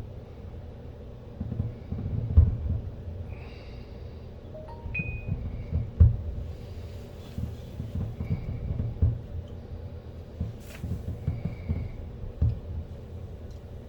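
Distant fireworks going off: an irregular string of low, dull booms, a few of them louder, with no pause between them.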